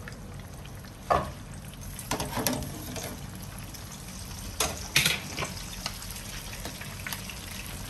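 Chicken frying in oil, a steady sizzle, with a few sharp knocks and clinks of a utensil against the pan, the loudest about a second in and around five seconds in.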